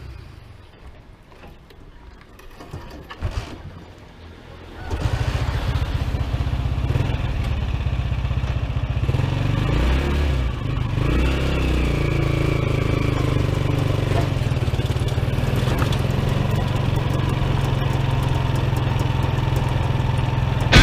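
Honda TMX155 single-cylinder motorcycle engine on a sidecar trike starting about five seconds in, then running steadily as the trike pulls away.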